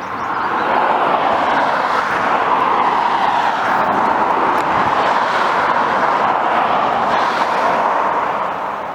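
Road vehicle noise: a steady rush of tyres and engine that swells up about half a second in and eases off near the end.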